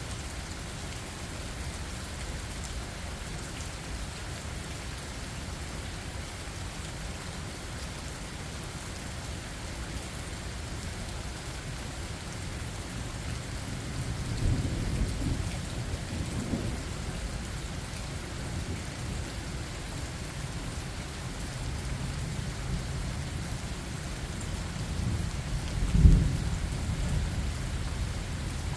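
Steady rain falling during a thunderstorm, with thunder rumbling about halfway through and a sharp, loud thunderclap near the end.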